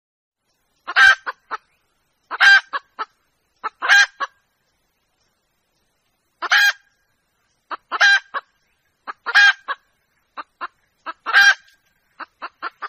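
Red junglefowl hen calling: seven loud, harsh call notes, most trailed by two or three short clucks. This is the hen's call to a rooster, the one used as a lure call.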